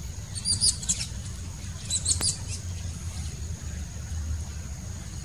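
Baya weaver chirping: two quick runs of short, high chirps, one about half a second in and another around two seconds in.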